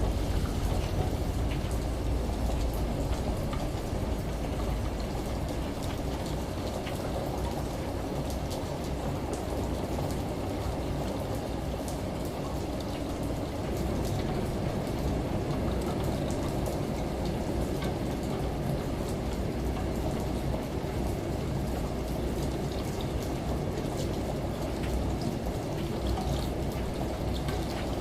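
Steady rain with scattered drop ticks, over a low rumble that is strongest in the first few seconds.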